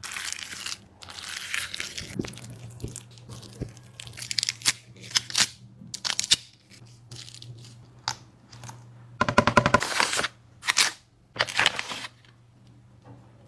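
A dog eating from close by: crunching and chewing in irregular bursts, with a quick run of rapid clicking chews about nine seconds in.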